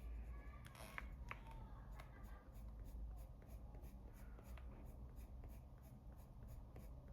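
Coloured pencil scratching faintly on paper in quick, short flicking strokes, shading a flower's petals.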